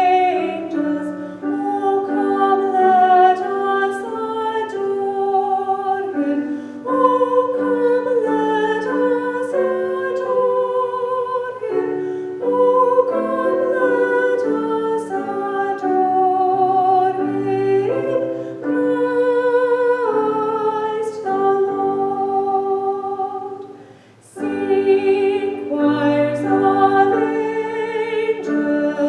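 A woman's solo voice singing a hymn with vibrato over piano accompaniment, with a brief pause in the music about three-quarters of the way through.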